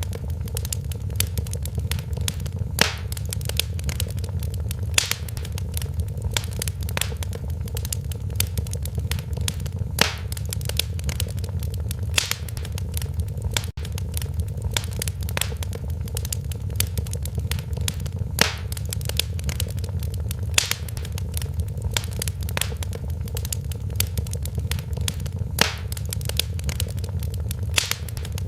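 Wood fire burning in a fireplace: a steady low rumble of flames under frequent crackles and sharp pops, a few of them louder snaps.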